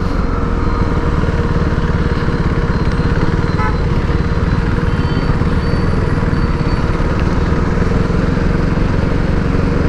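Motorcycle engine running steadily while riding, under a constant haze of wind and road noise.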